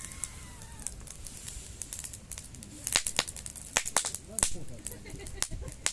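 Wood campfire crackling, with irregular sharp pops that come thickest and loudest around three to four and a half seconds in.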